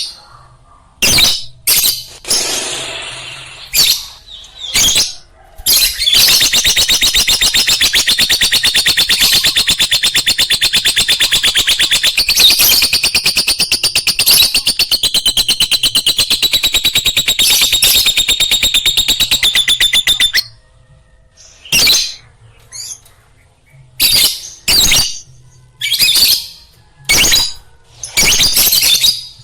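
Lovebird calling: a few short sharp chirps, then a long, unbroken, rapid chattering trill lasting about fourteen seconds that cuts off suddenly, followed by more short chirps.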